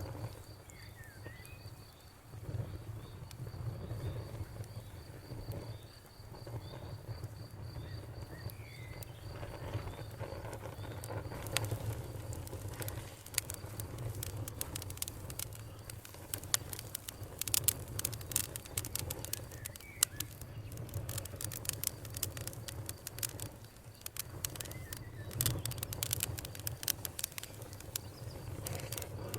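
Wood fire crackling with sharp pops over a low rumble; the pops grow much denser about a third of the way in. A high steady insect trill runs through the first third, and a few short bird chirps come through.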